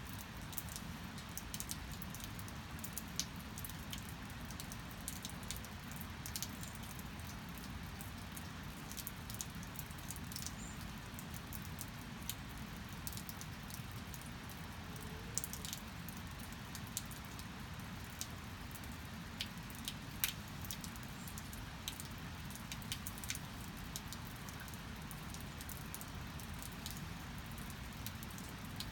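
Steady rain with many sharp drops pattering and dripping over a constant low rumble.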